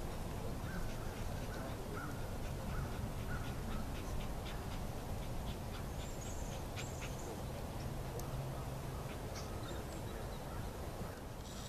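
Short bird calls repeating in the distance, several in the first few seconds and a couple of higher chirps later, over a steady low outdoor rumble.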